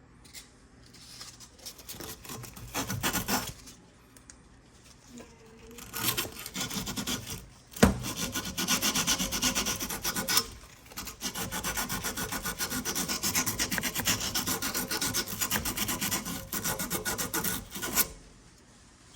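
Rapid back-and-forth scraping on the aluminum coil tubing while preparing or working the pinhole leak repair. It starts as short bouts, then a sharp click comes about eight seconds in, followed by about ten seconds of nearly continuous fast rasping strokes.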